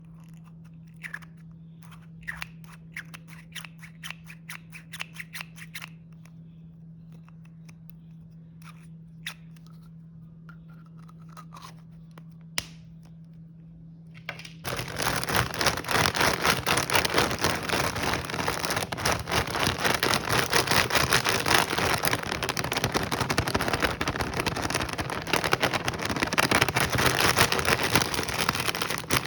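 Snack packaging being handled: scattered clicks and small scrapes, then about halfway through a loud, continuous crinkling of the wrapper that starts abruptly.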